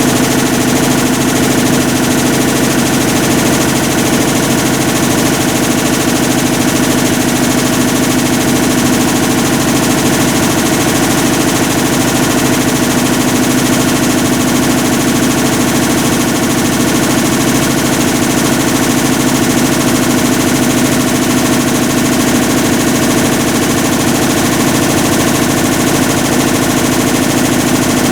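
2012 Hitachi BeatWash BW-D8KV washing machine running with a loud, steady, very rapid rattling grind: the abnormal noise of a failing clutch.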